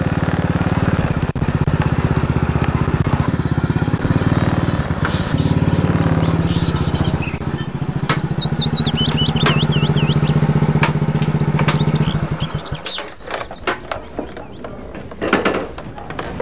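Honda Astrea underbone motorcycle's small four-stroke single-cylinder engine running at low speed, then shut off about twelve seconds in. Birds chirp over it, and a few clicks and knocks follow once the engine stops.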